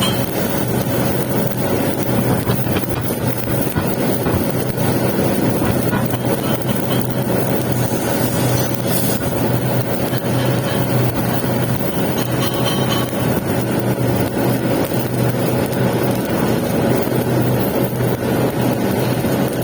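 Steady crackle of a stick-welding arc laying a capping pass on pipe, over a continuous machine hum.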